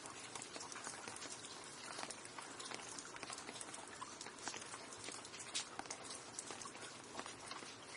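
Rain falling steadily, a continuous hiss thick with the sharp pattering of individual drops striking a hard surface.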